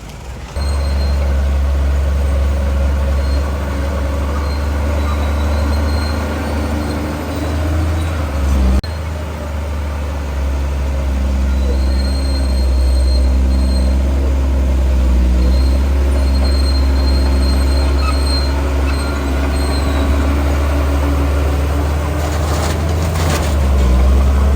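Heavy diesel earthmoving machinery running steadily with a deep engine rumble and intermittent high-pitched squeals, with a short burst of clanking near the end.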